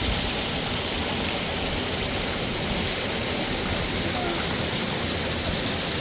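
Steady rushing of a flowing mountain river.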